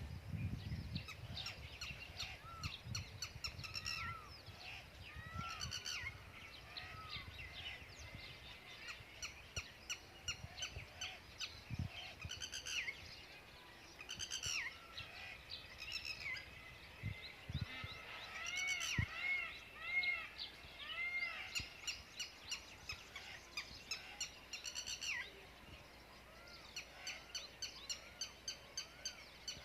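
Several birds chirping and calling together in a morning chorus: many quick, arched chirps and short repeated phrases overlapping, with a run of four or five matching notes about two-thirds of the way in.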